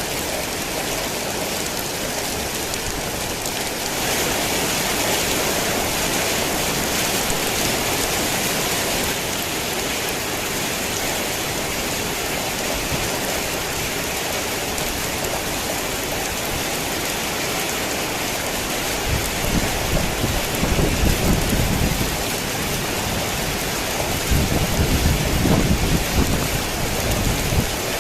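Heavy rain falling steadily, a little heavier a few seconds in. Two low rolls of thunder come in the second half, the second near the end.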